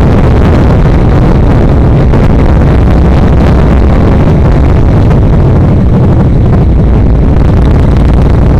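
Yamaha XVS1300 V-twin motorcycle engine running steadily on the move, loud, with rushing road and wind noise.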